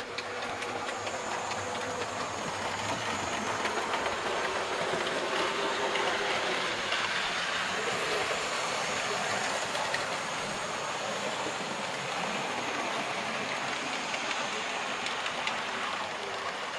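A train running along the track, a steady running sound that rises a little over the first few seconds.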